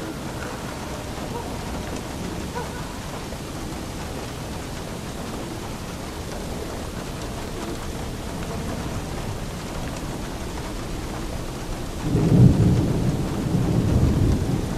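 Steady rain falling, with a rumble of thunder swelling up near the end.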